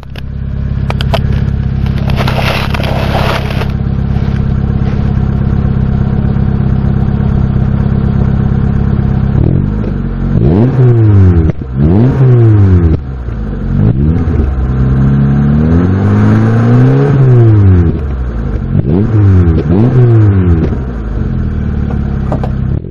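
Citroen Xsara 1.4i petrol four-cylinder running through a Fox aftermarket rear silencer with a single 90 mm tailpipe. It idles steadily for about nine seconds, then is blipped in a series of quick revs, with one longer rev in the middle. A brief hiss comes about two seconds in.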